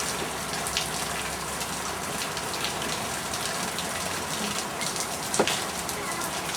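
Steady rain falling, an even hiss with scattered drop ticks and one sharper tap about five seconds in.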